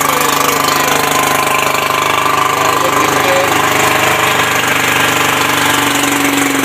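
Suzuki DT175 two-stroke V6 outboard motor running steadily at about 2000 rpm on a flushing hose.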